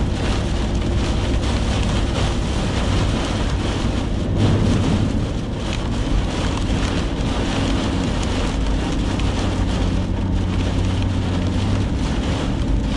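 Heavy rain on a moving vehicle, heard from inside, over the steady hum of the engine and road noise, with a brief louder swell about four and a half seconds in.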